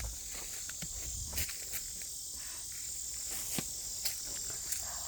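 Steady high-pitched chorus of insects such as crickets or cicadas, with a few faint ticks.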